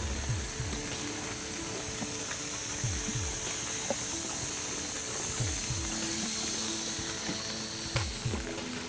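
Rain falling steadily with a hiss, and footsteps thudding regularly on wet pavement.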